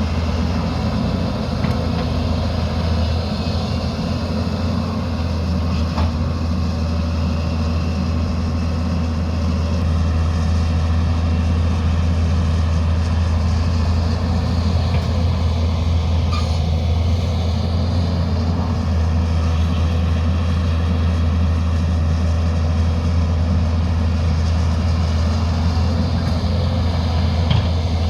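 Diesel engine of heavy construction machinery, a backhoe loader or excavator, running steadily with a deep, even hum and a few faint clanks.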